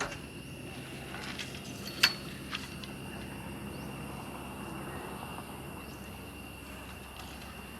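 A steady high-pitched insect chirring, with a few sharp knocks, the loudest about two seconds in.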